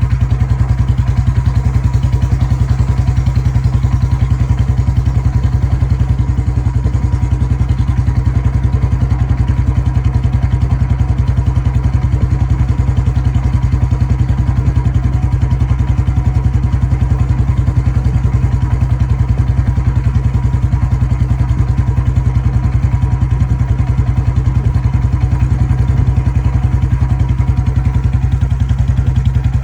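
Royal Enfield Bullet's single-cylinder four-stroke engine running steadily, a rapid, even beat of exhaust pulses with no revving.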